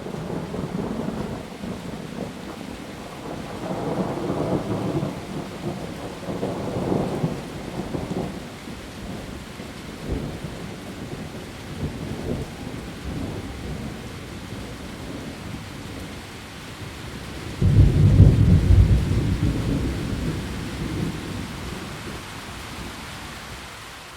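Heavy rain falling on leaves, with thunder: a rolling rumble about four to eight seconds in, then a sudden loud thunderclap near eighteen seconds that rumbles away over the next few seconds.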